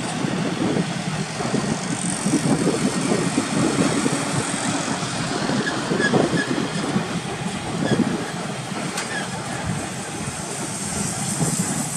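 Intermodal freight cars loaded with truck trailers rolling slowly past: steel wheels clattering over the rail joints with irregular clanks and rattles.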